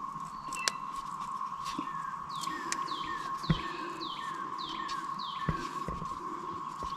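A bird calls a run of about seven falling notes, about two a second, over a steady high-pitched hum. A few sharp clicks sound now and then.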